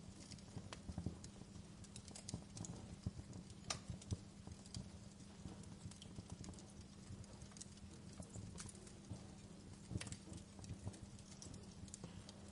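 Wood fire crackling: irregular pops and snaps, a few sharper ones standing out, over a low steady background.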